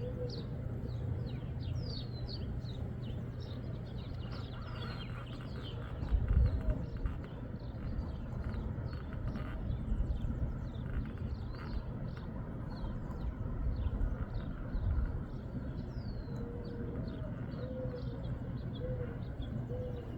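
Small birds chirping over and over, short quick chirps that drop in pitch, with a steady low hum beneath. Faint short wavering calls come at the start and several times in the last few seconds, and low rumbles, like wind on the microphone, come about six seconds in and again near fifteen seconds.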